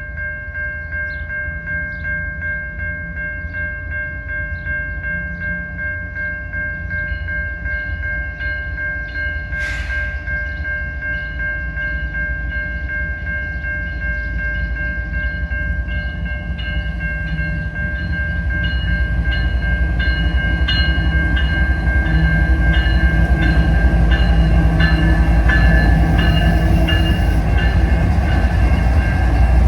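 A train approaching and growing louder, its low rumble building over the last ten seconds. Throughout there is a steady high-pitched ringing tone with regular ticks about twice a second.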